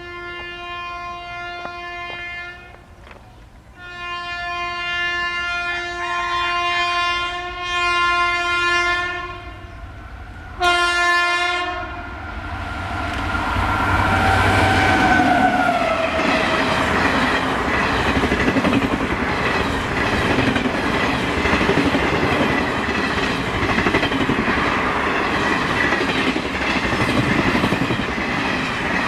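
WAP-7 electric locomotive sounding its horn in three blasts over the first twelve seconds, the last one short, then the train running past with its wheels clattering over the rail joints.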